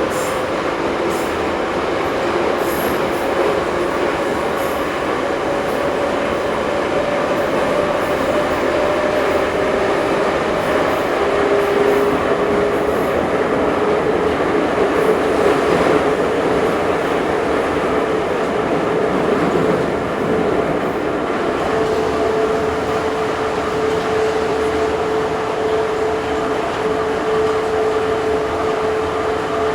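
Ezh3 metro train running at speed between stations, heard from on board: a steady rumble of wheels and running gear, with a motor whine that slowly rises in pitch and then holds steady.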